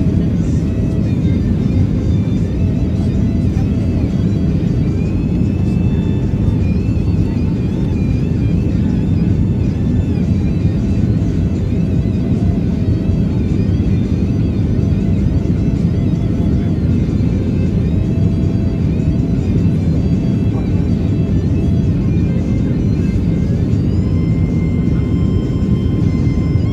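Steady low rumble of a Boeing 737-800's cabin in flight: airflow and CFM56 engine noise heard from a passenger seat, with faint music over it.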